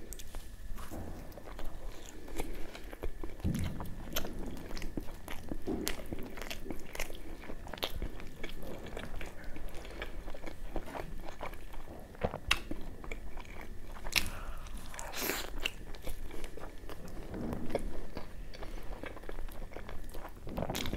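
Close-miked eating: chewing and biting mouthfuls of puri dipped in mutton curry, with many short irregular wet mouth clicks.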